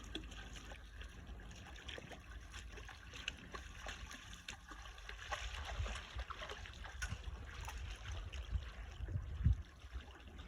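Water trickling and gurgling through a breach torn in a beaver dam, with many small splashes and drips throughout.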